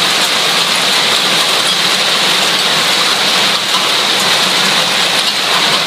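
Hailstorm with heavy rain pelting down: a dense, steady, loud hiss.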